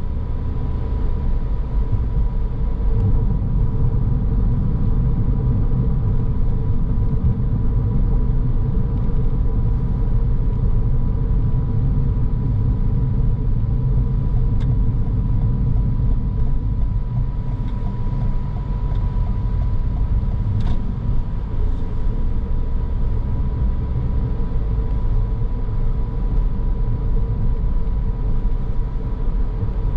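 A car driving along: steady road and engine rumble heard from the moving car, with a thin steady high tone running through it and a couple of faint clicks about halfway through.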